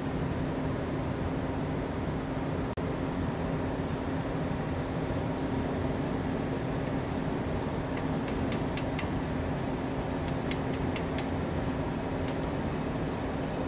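Steady mechanical hum of a stationary train at the platform, a constant drone with a low tone running through it. A few light clicks come in short clusters about eight and ten seconds in, as the coupling gear between locomotive and carriage is handled.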